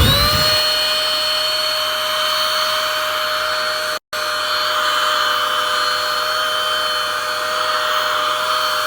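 Small handheld vacuum cleaner motor spinning up as it is switched on, then running steadily with a high whine over a rushing airflow. It cuts out for a moment about four seconds in.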